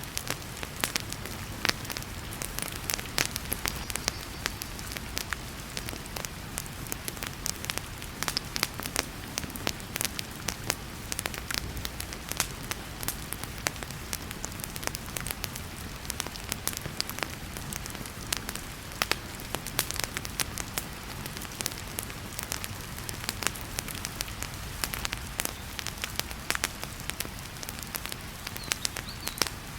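Wood fire crackling in a fireplace, with many sharp, irregular pops over a steady hiss of heavy rain.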